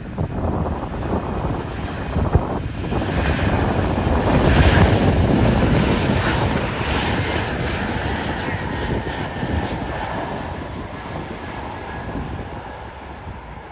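Airliner passing close by: its engine noise swells to a peak about five seconds in, then fades away with a slowly falling whine.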